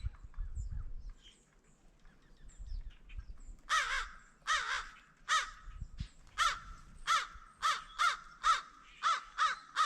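A crow cawing about eleven times in a quick series, starting a few seconds in, with faint small-bird chirps before it.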